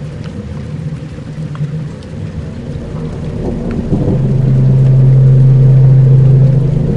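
Dark ambient soundscape: a low rumbling drone over a faint rain-like crackle, with a deep steady tone that swells in about four seconds in and eases off near the end.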